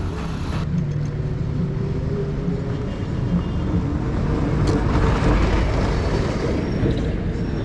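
A motor vehicle's engine running close by, a steady low drone that grows loudest about five seconds in as it passes.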